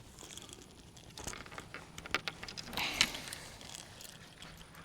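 Close handling noises: rustling, crinkling and small clicks as hands work bait and tackle, threading shad onto hooks. There is a louder scrape about three seconds in.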